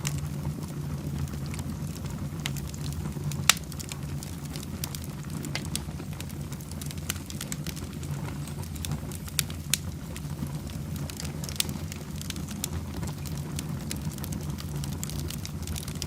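Fire burning in a fireplace, crackling with scattered sharp pops, the loudest about three and a half seconds in, over a steady low rumble.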